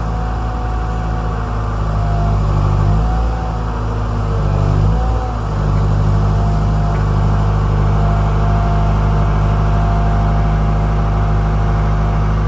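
Gradall XL3200 wheeled excavator's diesel engine running steadily, its pitch dipping and recovering briefly a few times.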